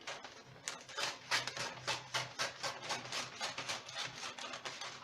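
Sheets of paper rustling and crinkling in quick, irregular bursts as they are handled and pasted over cardboard, with a faint low hum underneath.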